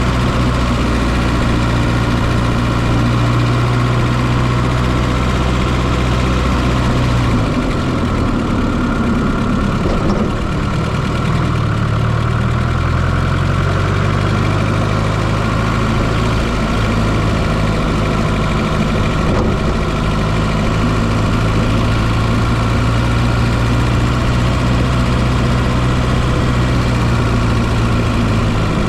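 1995 Fiat Coupé 2.0 16V turbo four-cylinder engine running, heard close up from inside the engine bay. Its note holds steady, wavers and shifts in pitch for several seconds partway through, then settles steady again.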